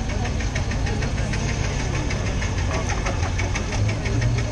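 Antique car's engine chugging steadily at low speed, with a regular knock about five times a second over a low rumble.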